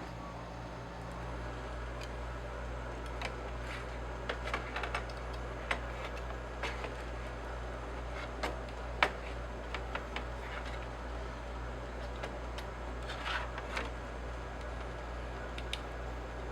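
Scattered light clicks and taps, irregularly spaced, the loudest about nine seconds in, over a steady low hum.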